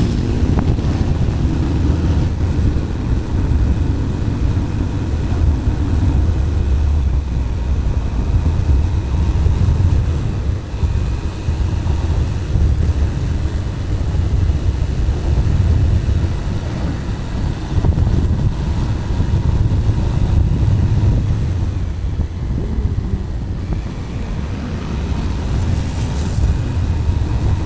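Bajaj Pulsar 220's single-cylinder engine running at road speed, heard from a helmet camera with wind rushing over the microphone: a steady, loud low rumble that rises and falls slightly.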